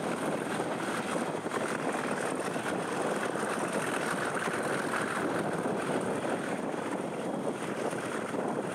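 Diesel-hauled passenger train running at speed, heard from an open carriage window: a steady rush of wind, wheel-and-rail noise and the locomotive working at the head of the train.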